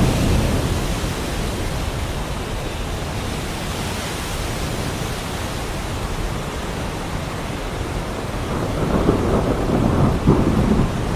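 Heavy rain falling steadily, with thunder rumbling: one roll dying away at the start and another building about nine seconds in.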